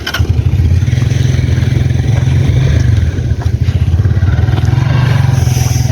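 Motorcycle engine running steadily as the bike rides along, heard from on the bike as a loud, steady low drone.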